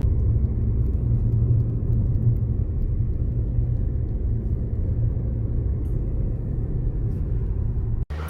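Steady low rumble of a car driving, cutting off abruptly near the end.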